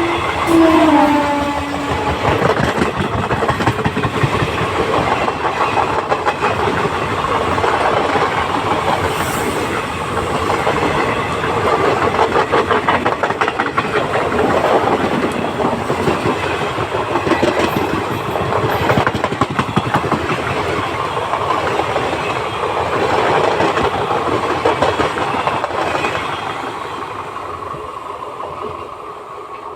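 Train hauled by an electric locomotive running past close by, wheels clattering over rail joints without a break. A horn note sounds at the start and dies away with a downward bend about a second in, and the train noise fades near the end.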